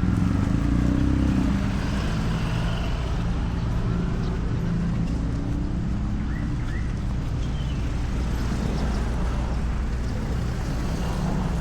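Steady low drone of the passenger ship KM Bukit Siguntang's engines, a deep hum with a few held low tones.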